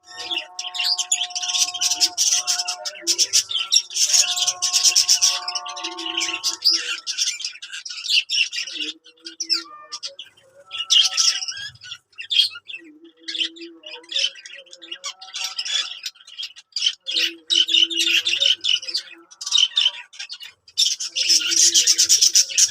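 Budgerigars chattering and chirping in a busy stream of high, rapid calls, coming in bursts with short gaps. Steady, lower held tones sound under the chatter during roughly the first six seconds.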